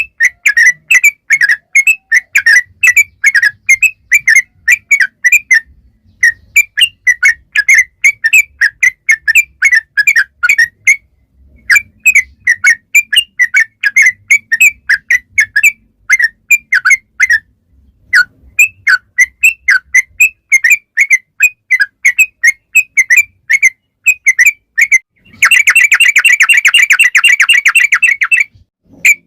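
Yellow-vented bulbul (trucukan) singing loudly: quick whistled notes about three a second, in phrases broken by short pauses. Near the end it runs into a fast continuous trill lasting about three seconds.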